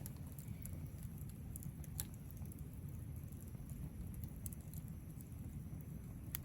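Wood fire crackling in a fire pit: scattered sharp pops and ticks over a faint, steady low rumble, with a louder pop about two seconds in and another near the end.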